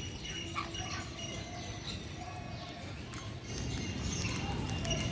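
Many small birds chirping: short, high calls overlapping all the way through, over a steady low rumble.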